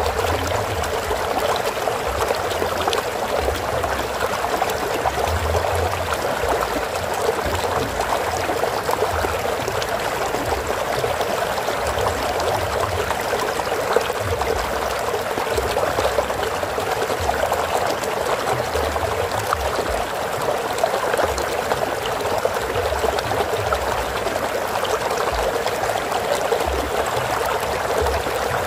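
Stream water flowing steadily, a continuous running-water sound with uneven low rumbling underneath.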